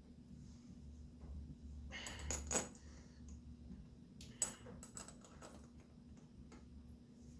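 Small metal fasteners clinking and tapping as they are handled and set into a motorcycle cylinder head, in two short clusters about two seconds and four and a half seconds in.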